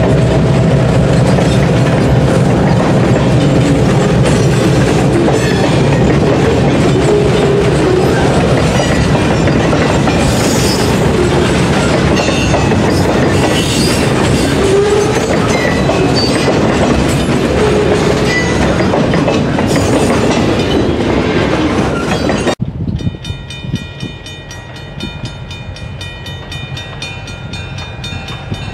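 Freight train rolling by close up: steady rumble and rattle of the cars with the clickety-clack of wheels over the rails. About 22 seconds in it cuts suddenly to a quieter stretch where a train horn sounds steadily.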